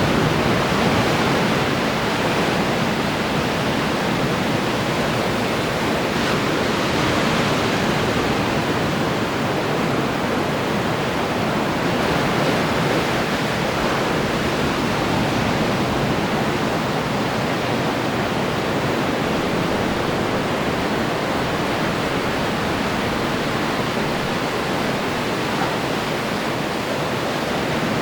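Ocean surf: waves breaking and washing in a continuous, steady rush, a little louder in the first second.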